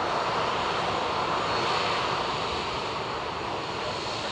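Jet airliner engine noise from a Boeing 777-300ER's GE90 turbofans: a steady rushing noise with a faint high whine, slowly fading.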